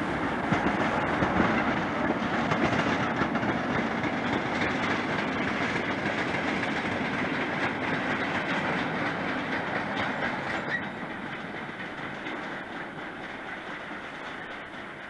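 British Rail diesel-hauled freight train passing, its wagon wheels clattering over the rail joints. It is loudest in the first few seconds and grows quieter after about ten seconds.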